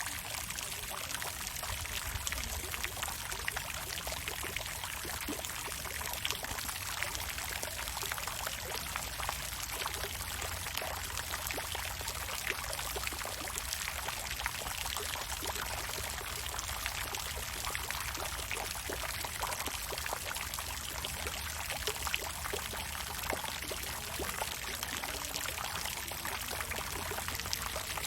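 Water fountain running: falling water splashing steadily in an even, continuous hiss, flecked with small droplet splashes, over a low rumble.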